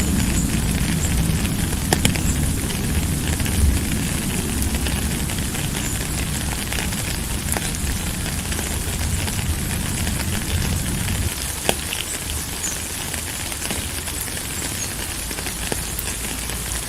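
Steady rain falling, a hiss with scattered drop ticks. A low rumble runs underneath and cuts off suddenly about two-thirds of the way through.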